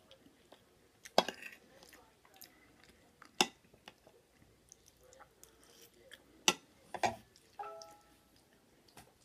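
Eating sounds: chewing and mouth noises with a handful of sharp clicks and taps, the loudest a little over a second in, at about three and a half seconds and at about six and a half seconds.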